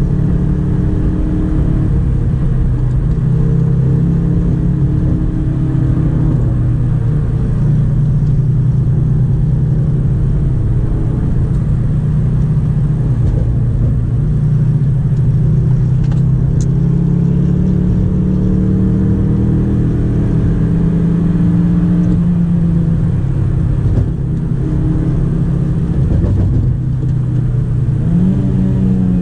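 Honda Civic 1.8-litre four-cylinder engine, heard from inside the cabin, pulling hard through a manual gearbox. The engine note rises and falls in pitch with the throttle under road and tyre rumble. Near the end the driver shifts gear and the revs climb again.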